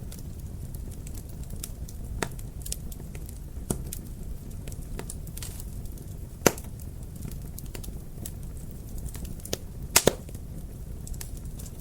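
Wood fire in a fireplace crackling: a steady low rumble of the flames with scattered sharp pops, the loudest about six and a half seconds in and a quick pair near ten seconds.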